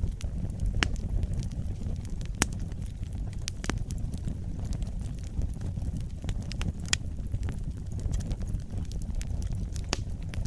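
Wood fire burning: a steady low rumble of the flames with irregular sharp crackles and pops of the burning wood, a few louder pops among them.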